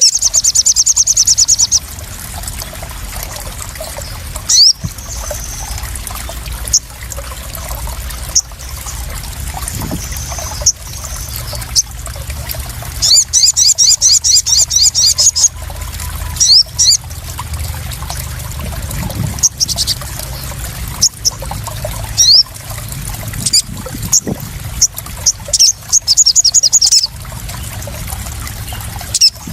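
A small songbird repeating rapid high-pitched trills in bursts of one to two seconds, three times, with short sharp chirps scattered between them, over steadily trickling and splashing water.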